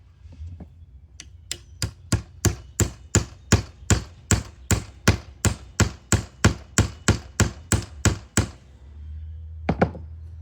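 A hammer striking wood with even, rapid blows, about three a second, stopping near the end and followed by two quick final blows.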